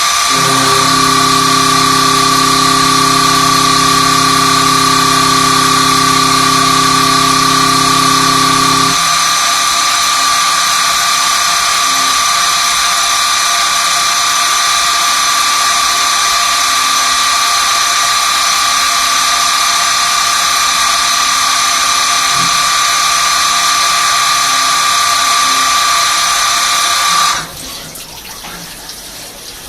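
Swiss-type CNC lathe running, a steady high-pitched whine with several tones over a water-like rush of coolant. A lower hum joins for the first nine seconds or so, and the whine cuts off suddenly near the end.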